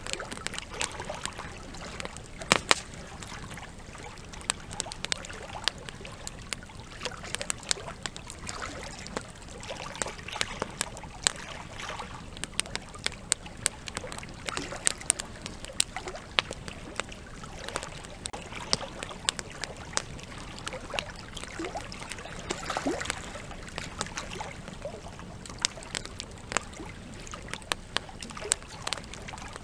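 Campfire crackling with irregular sharp pops and snaps, a loud snap about two and a half seconds in, over the steady rush of flowing river water.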